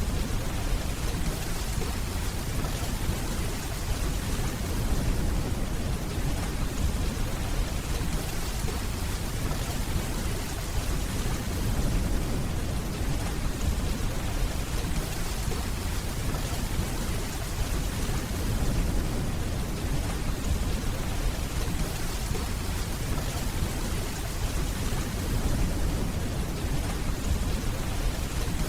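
Steady rain falling, with a low rumble of distant thunder underneath.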